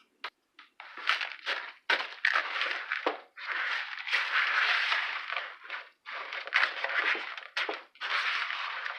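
Dry stuffing mix being stirred with broth in a bowl: crunchy, scraping rustles in repeated strokes with short pauses, and a few sharp clicks near the start.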